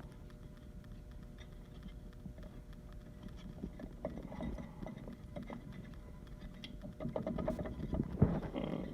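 Faint clinks, scrapes and knocks of hand work on an ATV's rear brake drum and cover, getting busier near the end with one sharper knock, over a faint steady hum.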